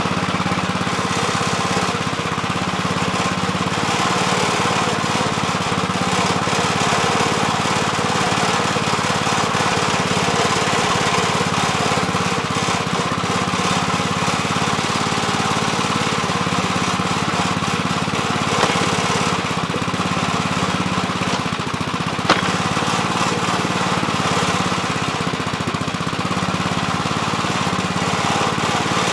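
Gravely Terramite backhoe's engine running steadily under digging work, with two brief sharp knocks, the second about 22 seconds in.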